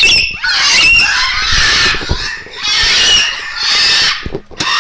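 Loud, harsh bird screams, several in a row, each lasting about half a second to a second with short breaks between them.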